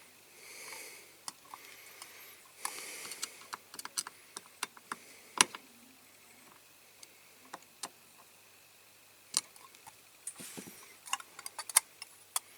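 Scattered small clicks and taps of diecast metal toy parts being handled while an axle is fitted into the model van's body, one tap louder about halfway through. Two brief soft hisses come in the first few seconds.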